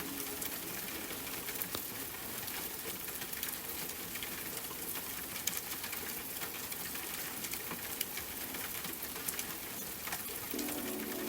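Steady rain: an even hiss with scattered sharp drop taps. Soft music comes back in near the end.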